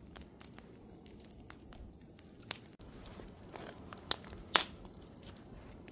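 Wood fire crackling: a low steady rustle with scattered sharp pops, the loudest about four and a half seconds in. The sound cuts in abruptly at the start.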